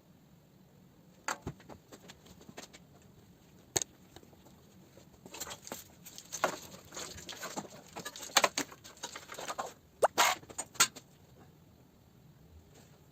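Irregular sharp clicks and knocks with scraping and rustling. They are sparse at first, then thicker and louder from about five to eleven seconds in, where the loudest clicks fall.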